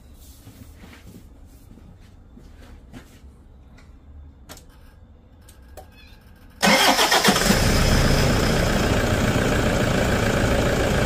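Several seconds of low background with a few faint clicks, then, about six and a half seconds in, a Toyota D-4D diesel engine starts with a sudden burst of noise and settles into a steady idle.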